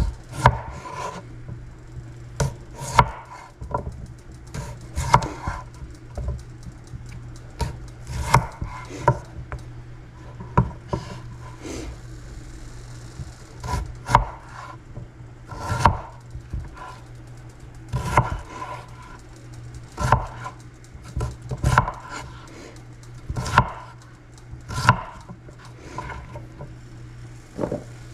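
Kitchen knife chopping potatoes into small cubes on a cutting board: sharp knocks of the blade hitting the board, irregular, about one every second or two, over a steady low hum.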